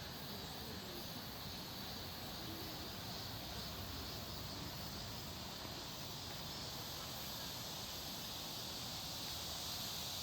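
Steady outdoor background ambience: an even hiss with a continuous high band and no distinct events.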